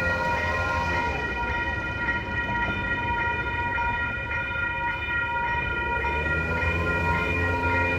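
Train running by with a low rumble, overlaid by several steady high-pitched tones held throughout.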